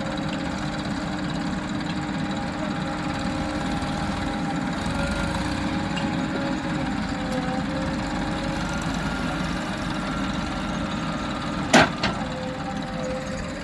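Heavy diesel engine running steadily, with two sharp loud bangs close together near the end.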